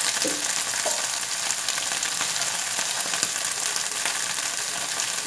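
Green beans and meatballs with tomato paste sizzling steadily in a frying pan over a gas flame, with fine crackling throughout.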